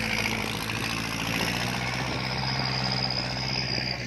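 Kubota L4708 tractor's diesel engine running steadily at an even, idle-like pitch.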